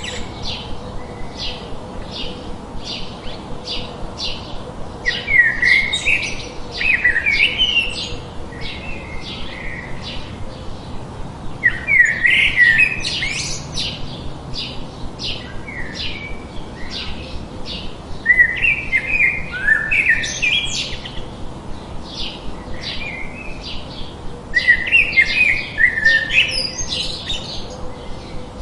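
Songbirds singing: a short high chirp repeated about twice a second, with a longer warbling phrase breaking in every six or seven seconds, over a steady low hiss of added white noise.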